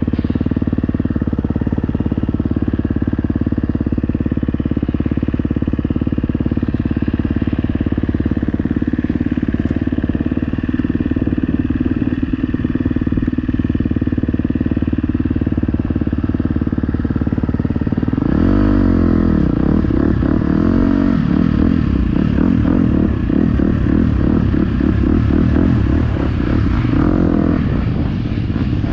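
Motocross bike engine running under way, heard from an onboard GoPro. It holds a steady pitch for most of the first two-thirds, then revs up and down repeatedly, with choppier throttle changes after that.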